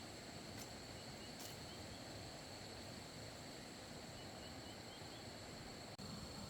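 Insects droning in a steady, high, unbroken trill over a low background hiss, with a few faint short bird chirps.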